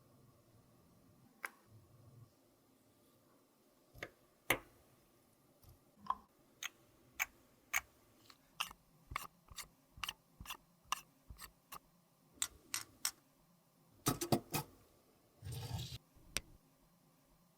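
A run of sharp, separate clicks and taps from small hard objects being handled up close, about one or two a second, bunching together near the end and followed by a short scraping rustle.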